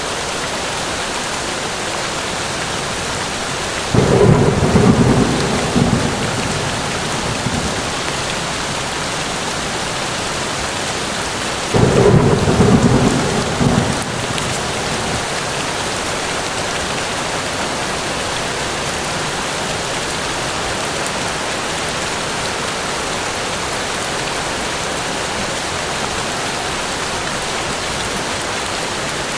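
Steady rain falling, with two short rumbles of thunder, one about four seconds in and another about twelve seconds in, each lasting about two seconds and louder than the rain.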